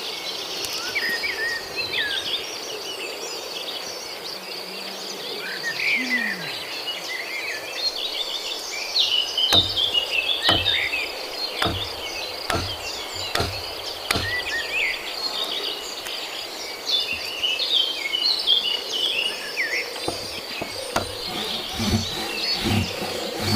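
Tropical forest ambience: a steady high insect buzz with birds chirping throughout. About ten seconds in comes a run of about six knocks roughly a second apart, and more knocks come near the end.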